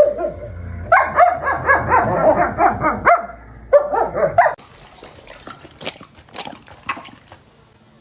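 A dog barking in quick runs of short, high yaps, two runs in the first half, followed by a few faint clicks.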